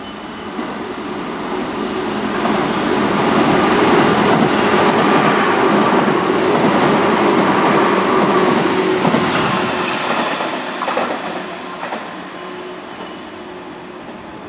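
Tobu 10000 series electric train passing through a station without stopping. The noise of its wheels on the rails swells, stays loud for several seconds as the cars go by, then fades away.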